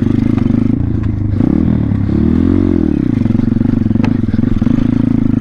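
Thumpstar 140cc pit bike's single-cylinder four-stroke engine under way on a trail, the revs rising and falling as it is throttled, with one clear sweep up and back down about two seconds in. A single sharp click about four seconds in.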